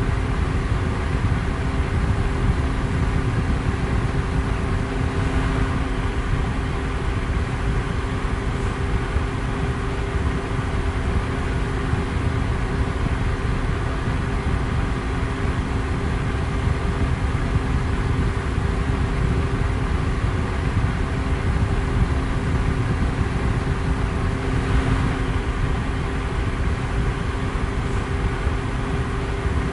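Electric fan running steadily: an even rush of air noise, heaviest in the low end, with a faint steady motor hum underneath.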